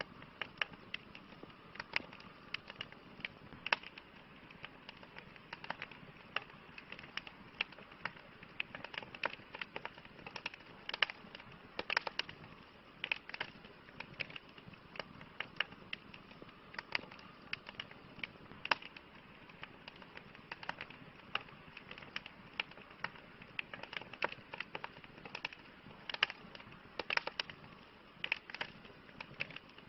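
Wood campfire crackling: frequent irregular sharp pops and snaps over a soft steady hiss.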